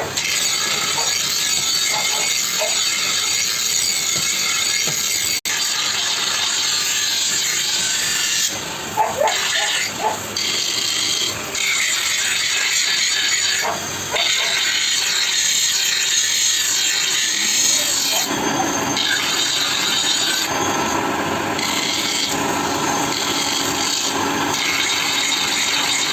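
Power tool grinding steel, a steady abrasive rasp broken by a few short pauses.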